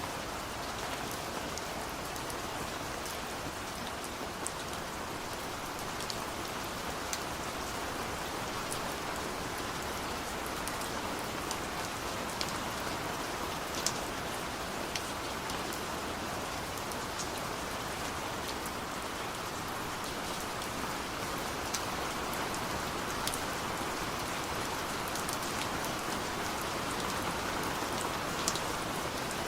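Steady rain falling, an even hiss with scattered sharp taps of individual drops striking close by.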